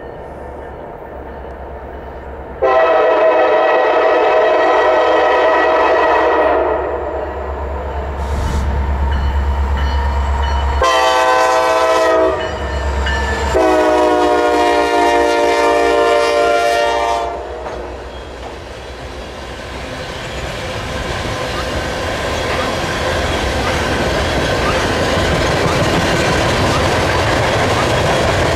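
Norfolk Southern diesel freight train blowing its locomotive horn as it approaches: a long blast about three seconds in, a short one, then another long one. The locomotives' diesel engines pass close, then tank cars roll by with a steady, growing clatter of wheels over rail joints.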